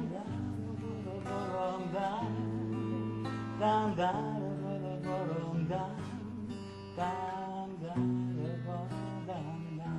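Acoustic guitar playing a song's introduction, strummed and plucked, with a wavering melody over held low notes.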